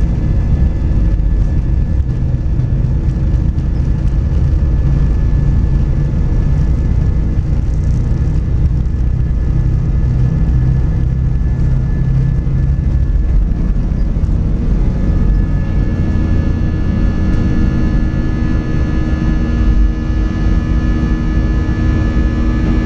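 Cabin noise of an Airbus A320 with IAE V2500 engines climbing after takeoff: a steady loud rumble with thin steady whining tones. The deepest part of the rumble eases about 13 seconds in, and the whining tones stand out more after that.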